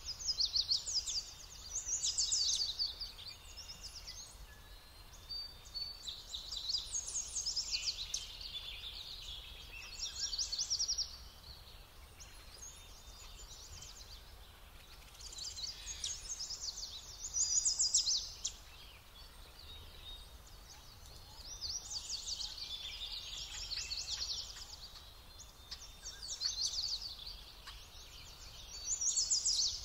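Songbirds singing: short phrases of rapid trilled notes, a new phrase every few seconds.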